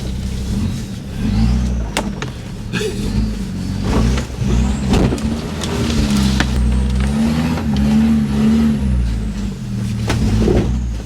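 An off-road 4x4's engine revving up and down under load as it drives over rough ground, with several sharp knocks and clunks from the vehicle along the way.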